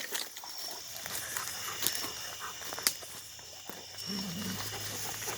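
Dogs scuffling with an animal they have caught and are dragging: rustling and scattered knocks, with no barking.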